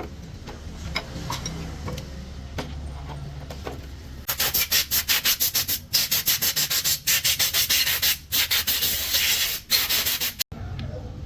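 Vigorous back-and-forth scrubbing of a gearbox part with a brush, about six fast strokes a second. It starts about four seconds in and stops suddenly near the end, after a quieter stretch of low hum and faint ticks.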